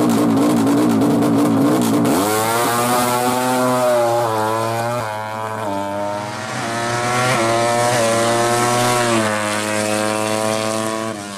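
Yamaha MX King motorcycle's single-cylinder engine, bored up to 200cc, revving: the pitch shifts sharply about two seconds in, then the revs are held with several quick blips of the throttle.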